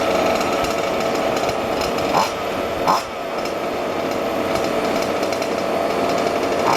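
Small two-stroke petrol engines of 1:5-scale RC cars running steadily, with short louder rises in engine note a little after two seconds, near three seconds and again at the end.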